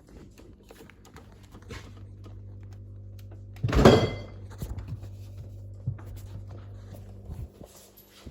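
LG American-style fridge freezer humming steadily, with a loud thunk of a door about four seconds in.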